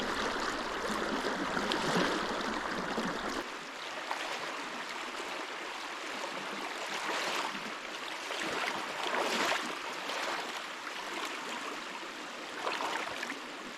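A small stream running and babbling over its bed: a steady wash of water noise with small irregular splashes.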